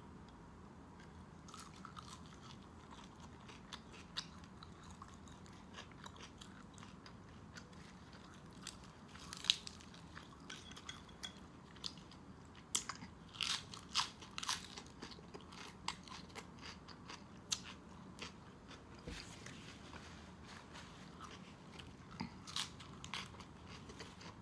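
Close-miked chewing and crunching of food (baked pork and fresh lettuce), with scattered sharp crunches; a cluster of louder crunches comes about halfway through.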